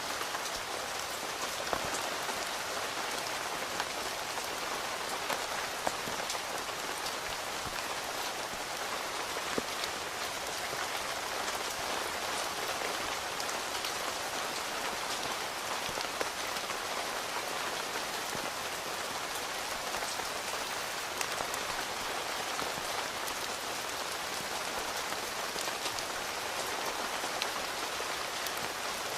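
Steady rain falling on a tent's fabric, heard from inside the tent, an even hiss with scattered sharper ticks of single heavier drops.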